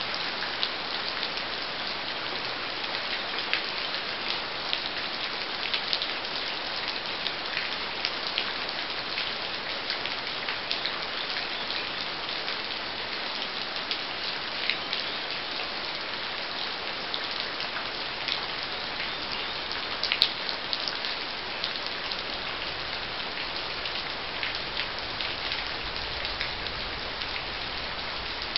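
Steady hiss of rain with frequent small crackling ticks from a twig fire burning in a canteen cup stove.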